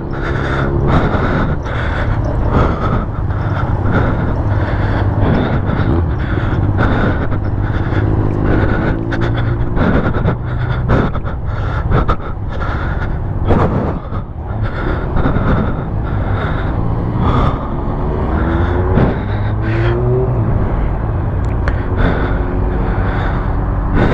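Sport motorcycle engine running while riding, its pitch rising several times as it accelerates, with a constant rushing noise underneath.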